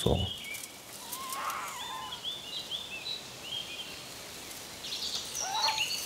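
Forest birdsong in the background: scattered short, high chirping notes over a low outdoor hiss, thickening again near the end.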